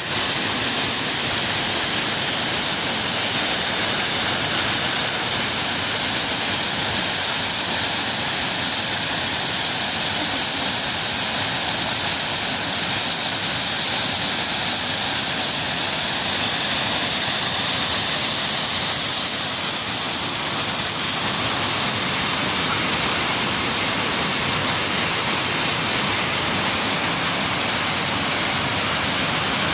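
Rushing water, a steady, unbroken roar like a waterfall or fast stream.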